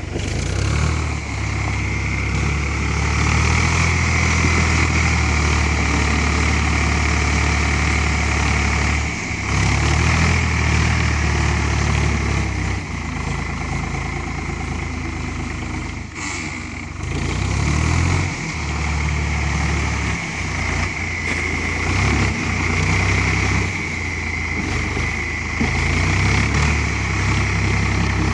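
Ford 3600 tractor's three-cylinder diesel engine running continuously, its low rumble swelling and easing every few seconds as the load changes.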